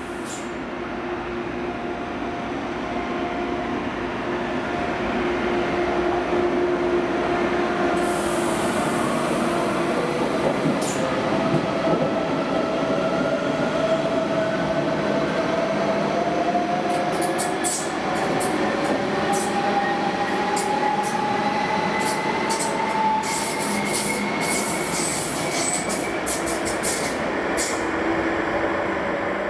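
ICE high-speed train running into the station alongside the platform, its rail and running noise building over the first few seconds and then holding. Steady tones in it slowly rise in pitch, and sharp high clicks and squeals of the wheels come through in the second half.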